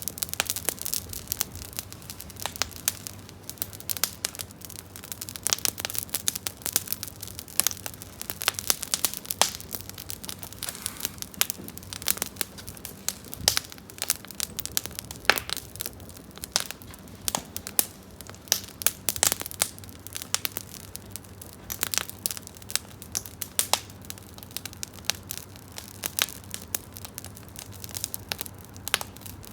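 Campfire of split firewood crackling, with many irregular sharp pops over a steady low hiss. The wood is rain-damp and burning smokily.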